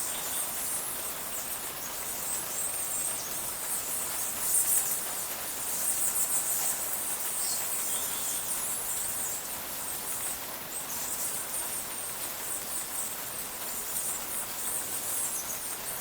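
Steady rain in a cloud forest, with a high, shrill insect chorus shimmering over it.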